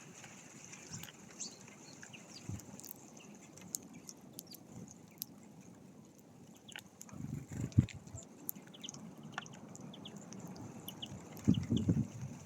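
Small wild birds at a feeder: scattered short high chirps and sharp clicks. Two louder low bursts come about seven and eleven seconds in.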